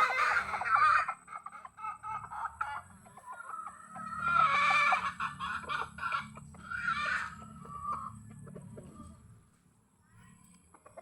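Chickens clucking and calling, with a rooster crowing about four seconds in and a shorter call near seven seconds. It dies down to near quiet shortly before the end.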